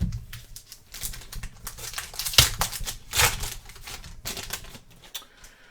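Trading cards being handled and flipped through by hand: an irregular run of clicks and short scraping slides as cards are moved off the stack.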